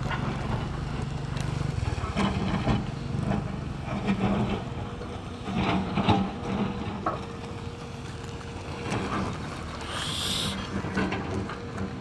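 Excavator's diesel engine running, with repeated low throbbing surges as it works. A brief hiss comes about ten seconds in.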